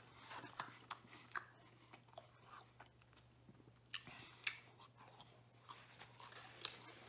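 A man chewing a mouthful of deep-dish pizza crust: faint, irregular mouth clicks and smacks, with a faint steady low hum beneath.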